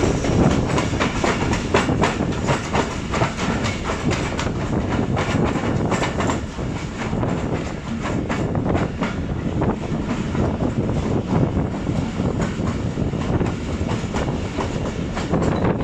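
Passenger train running at speed, heard from aboard a coach: a steady rumble with frequent clacks of the wheels over rail joints.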